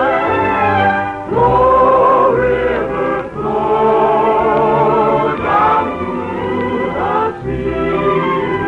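Choir singing a song from an operetta, holding chords that change about once a second, just after a voice sings the word "Saskatchewan".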